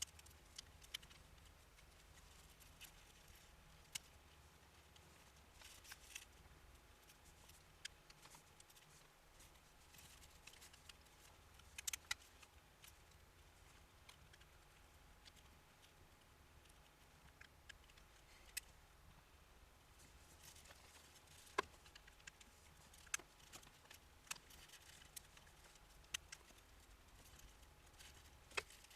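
Faint, scattered clicks and light taps of hand work on small parts, irregular, with a quiet steady hum beneath.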